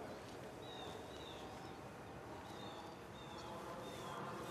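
A bird calling repeatedly over steady outdoor background noise: short, falling whistled chirps, about eight of them spread through the few seconds.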